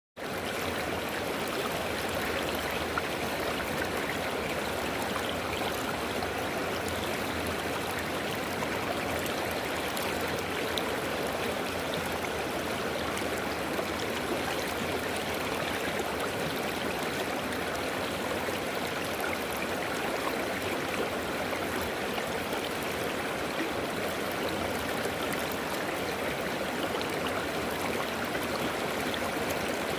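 River water flowing over stones: a steady rushing and babbling of a stream, even and unbroken throughout.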